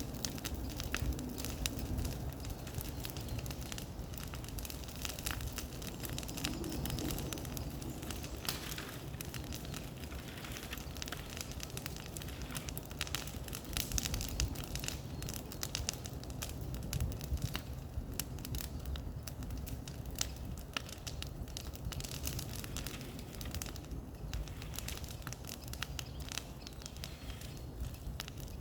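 Bonfire burning: a continuous irregular crackle of sharp snaps and pops over a low rumble.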